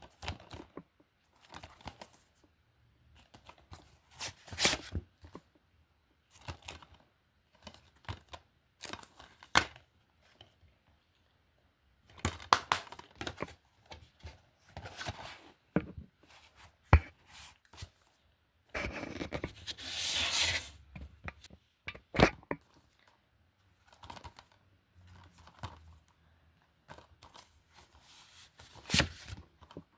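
Plastic DVD and Blu-ray cases being handled: scattered clicks and taps with short scraping rustles, and a longer scraping rustle about two-thirds of the way through.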